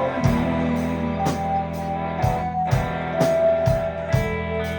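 Live rock band playing: sustained guitar and keyboard chords over bass, with a steady drum beat.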